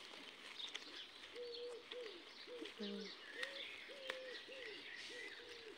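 A bird calling in a quick run of low, evenly repeated hooting notes, about two a second. Small birds chirp faintly at a higher pitch.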